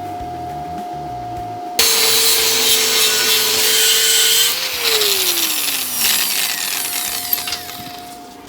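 Angle grinder switched on about two seconds in and grinding metal with a loud hiss; about halfway through it is released and winds down, its pitch falling steadily over a few seconds.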